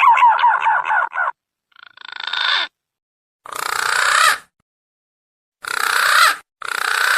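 Green pigeon (punai) calls played as a hunting lure: a whistled, warbling phrase that ends about a second in, followed by four short, harsh, rasping calls separated by silent gaps.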